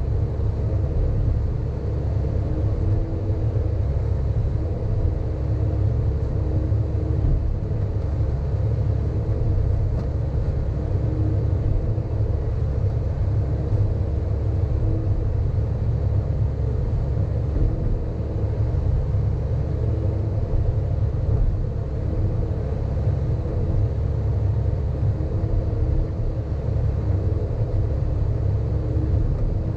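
Sany hydraulic excavator's diesel engine running under working load: a steady low rumble, with a faint pitched hum that comes and goes.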